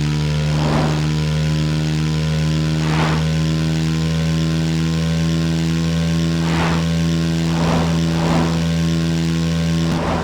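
A steady engine-like hum held at one unchanging pitch, with a faint pulse about once a second and a few brief swooshes.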